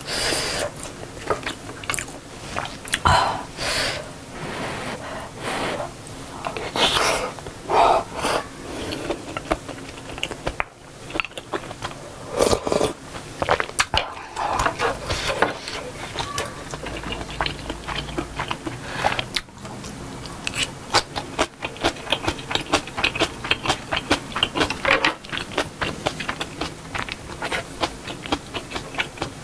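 Close-up chewing and wet mouth sounds of someone eating rice and sausage stew, with short clicks and smacks throughout and the occasional scrape of a wooden spoon in the bowl.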